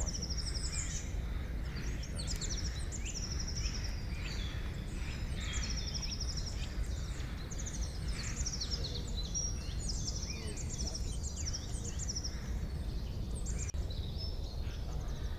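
Several forest birds singing at once, with fast rattling trills and short rising chirps in quick succession, over a steady low background rumble.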